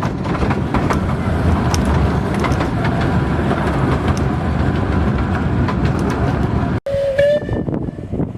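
Miniature railway train running, heard from on board: a steady rumble with irregular clicks of the wheels over rail joints. It cuts off abruptly near the end, followed by a brief pitched tone.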